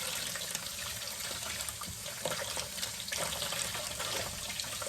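Sink tap running steadily, rinsing coffee grounds out of an espresso machine part held under the water, with a few light knocks.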